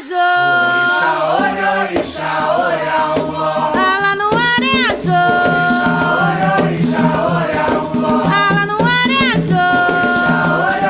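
Religious chant for the orixá Xangô sung in Yoruba-derived words, with a rattle and drum accompaniment keeping a steady beat; the voice glides and wavers in pitch.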